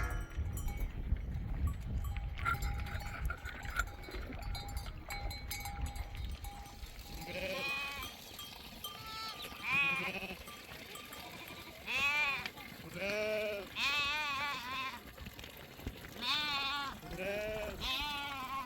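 Sheep bleating: about eight separate quavering bleats follow one another through the second half, after a few seconds of low rumbling noise.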